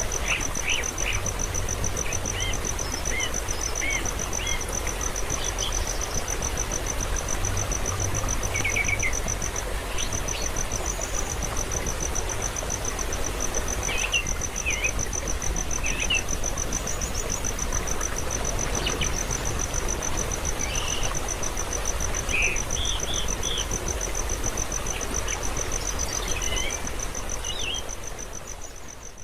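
A steady, high-pitched insect trill runs throughout, with scattered short, high bird chirps over a hissing outdoor background. It all fades out near the end.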